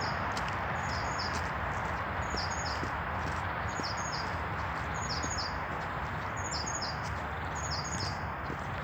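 A bird repeating a short, high call of quick descending notes about once a second, over a steady background hiss.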